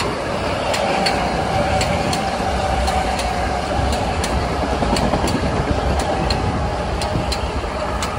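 Metro-North electric commuter train passing close by: a steady rumble of steel wheels on rail with a continuous hum, and repeated sharp clicks as the wheels cross rail joints.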